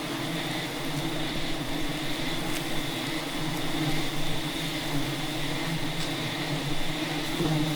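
A swarm of wild honey bees buzzing in a steady, continuous drone.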